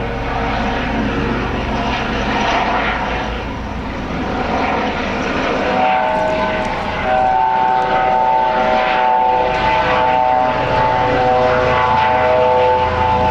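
Eurocopter EC135 P2+ twin-turbine helicopter flying past, a steady loud rotor and engine noise. About six seconds in it grows a little louder, with several steady tones that shift in pitch.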